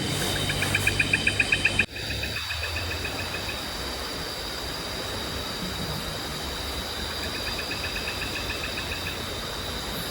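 Night forest insects: a steady high-pitched insect drone with rapid pulsed chirping trills from crickets or katydids, over a steady low rushing noise. The sound breaks off abruptly about two seconds in and resumes at a slightly lower level.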